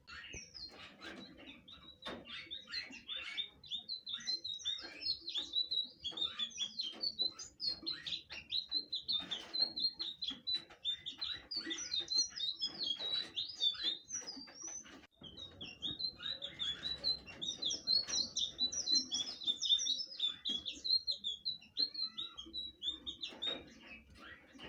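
Blue flycatcher (sikatan biru) singing a long, fast, varied song of quick high chirping notes, with a brief pause about halfway through.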